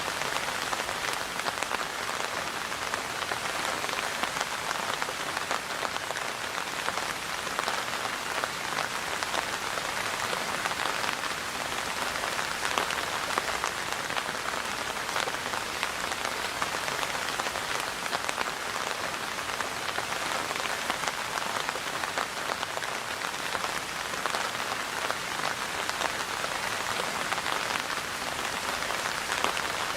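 Steady rainfall, a dense, even patter of many drops hitting surfaces.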